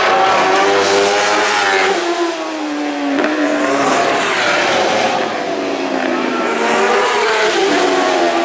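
Superbike racing motorcycles passing at speed, one after another, with high engine notes falling in pitch as each goes by.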